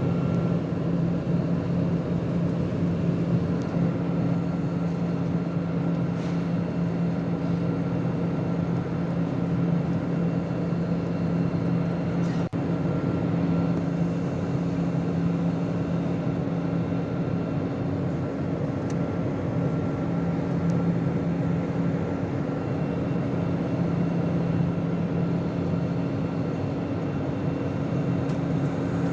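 Airliner cabin noise in flight: a steady, even rush of jet engines and airflow with a constant low hum, heard from inside the passenger cabin.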